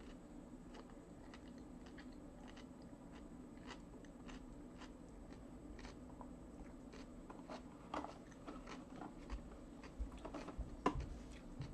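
A person chewing and eating fish sticks with a fork: faint mouth clicks throughout over a steady low hum, with a few louder clicks and knocks in the last few seconds.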